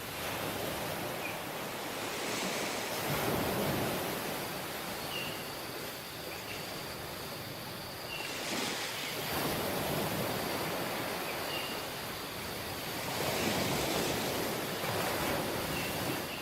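Surf on a tropical beach: waves washing in, the sound swelling and falling back about every five seconds, three times. Faint short high chirps come through now and then, and a thin steady high tone joins about halfway through.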